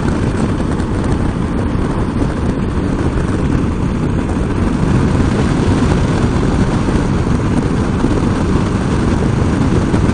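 Wind noise buffeting the microphone on a moving motorcycle: a loud, steady rush, heaviest at the low end, with the vehicle's running noise beneath it.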